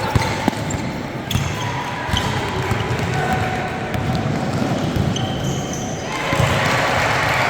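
A basketball bouncing on a hard court with sharp knocks, some short high squeaks, over a steady murmur of crowd voices that grows louder about six seconds in.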